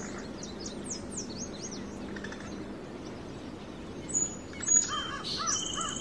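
Wild birds calling. A run of quick, high, falling chirps comes in the first two seconds. From about four seconds in, several louder calls overlap, among them a series of short arched notes.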